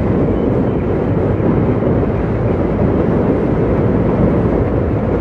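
Steady rumble of road traffic, continuous and without breaks.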